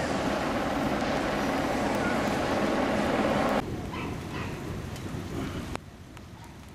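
Loud, steady rushing storm noise of rain and wind that cuts off abruptly about three and a half seconds in. After it the background is quieter, with a dog barking over and over some way off.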